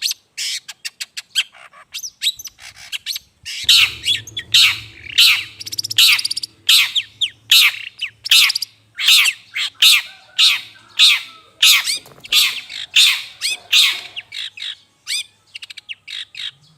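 Long-tailed shrike (cendet) giving a rapid series of harsh, scolding calls, about one to two a second, a lure call used to draw wild shrikes.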